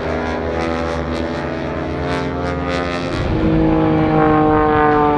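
Propeller aircraft engines droning as planes pass, their pitch slowly falling, with a second, louder engine tone coming in about three seconds in.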